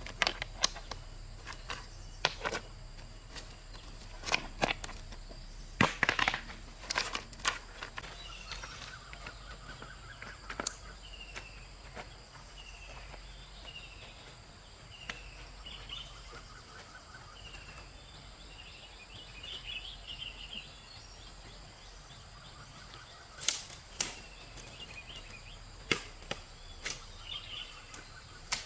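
Sharp knocks and snaps in quick bursts, thickest in the first several seconds and again near the end. In between, a bird repeats a short falling chirp about once a second.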